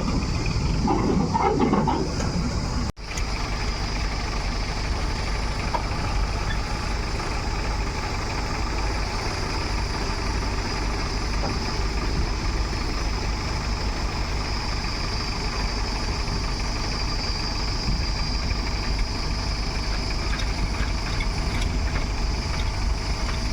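Diesel engine of heavy machinery running steadily, with a momentary break in the sound about three seconds in.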